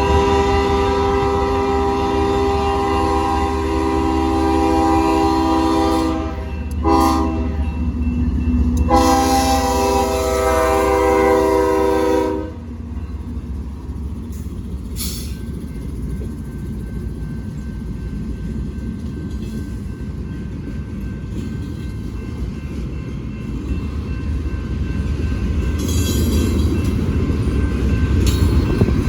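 Freight locomotive's air horn sounding a chord: a long blast, a very short one, then another long blast. After that the train rumbles steadily, growing louder near the end.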